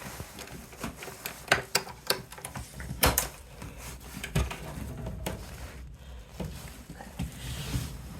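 Irregular sharp clicks and crunches, unevenly spaced, the loudest about one and a half and three seconds in, over a low rumble.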